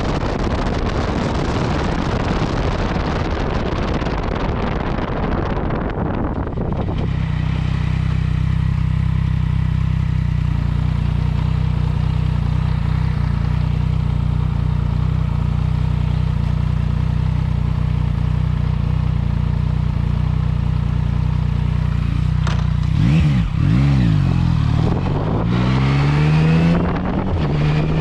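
Wind rushing over the microphone of a moving motorcycle, which gives way about seven seconds in to the Yamaha MT-09 Tracer's inline-three engine with Akrapovic exhaust idling steadily. Near the end the revs fall and rise twice.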